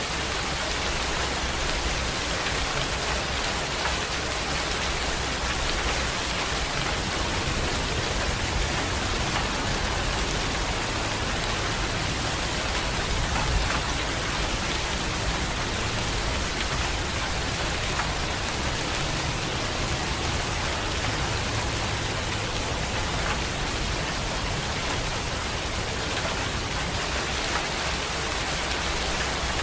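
Steady rain falling: an even, unbroken hiss with a low rumble underneath, and one slightly louder tap about halfway through.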